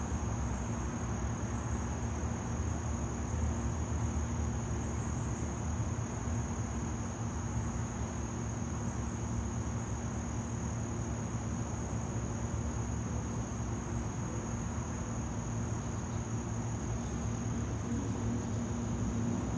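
A continuous, high-pitched insect trill, unbroken and unchanging, over a steady low background rumble.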